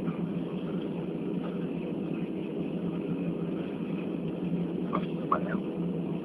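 Steady airliner cabin noise on the ground after landing: an even low hum from the idling jet engines and cabin air system.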